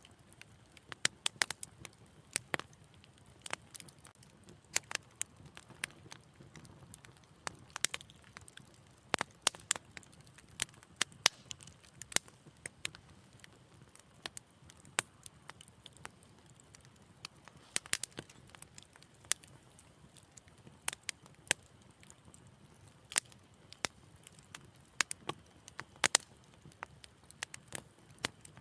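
Wood fire crackling in a fireplace: sharp, irregular pops and snaps, sometimes in quick clusters, over a faint low hiss.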